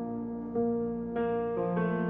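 Soft instrumental music between sung lines: sustained keyboard chords that change a few times.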